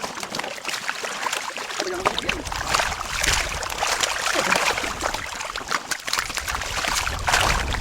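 Water splashing and sloshing, dense with small crackling splashes, as a harvested catch of catfish thrashes in water. A low rumble comes in about two seconds in, fades about six seconds in and returns near the end.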